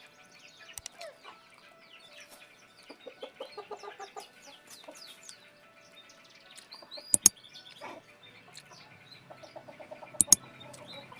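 Clucking and chirping bird calls, with runs of quick repeated clucks, and two sharp loud knocks about seven and ten seconds in.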